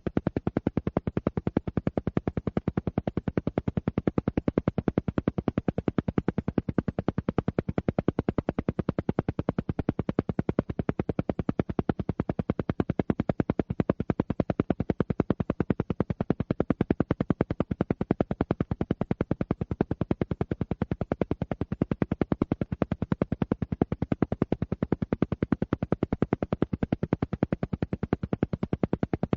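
Alpha-wave brainwave-entrainment audio: a steady, rapid train of evenly spaced pulses, many per second, at an unchanging level.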